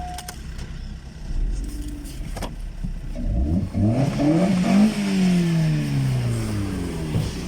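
Opel Astra H's 1.6-litre four-cylinder petrol engine (Z16XER) idling, then revved up over about a second and a half and sliding slowly back down to idle, with a sharp click just before the rev.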